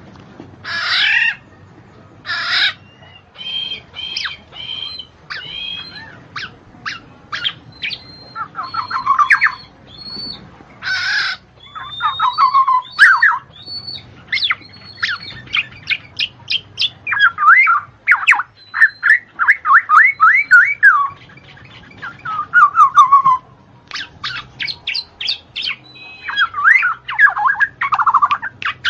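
A bird calling and singing: a fast, varied string of chirps, whistles, quick down-slurred notes and short squawks, with brief trills.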